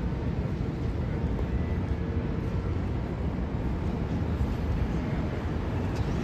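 Steady low rumble of outdoor city background noise, street traffic mixed with wind on the microphone.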